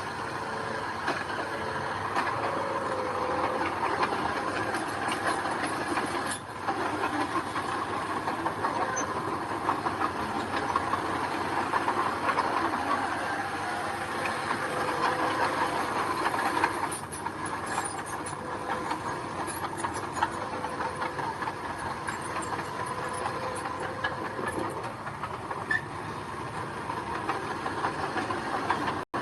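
Mini bulldozer working gravel: engine running with a steady dense clatter and scraping of tracks and stones.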